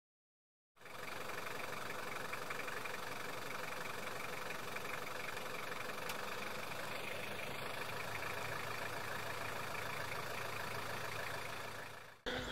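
Car engine idling steadily. It comes in about a second in and fades out just before the end.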